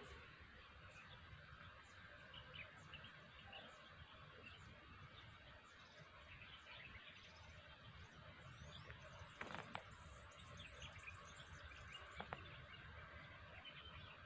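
Faint outdoor background with scattered small bird chirps over a low hiss, and two soft knocks in the second half.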